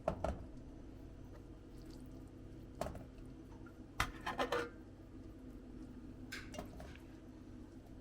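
Short clinks and knocks of cooking pots and utensils being handled, in a few scattered bursts, the loudest cluster a little after four seconds in, over a steady low hum.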